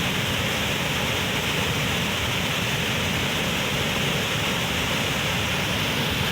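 Waterfall: falling water making a steady, even rush of noise with no change in level.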